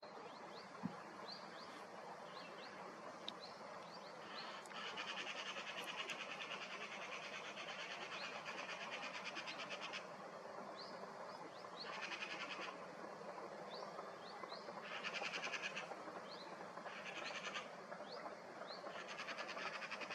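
Wild birds calling, with many short rising chirps and several buzzy trills that come and go, the longest lasting about five seconds.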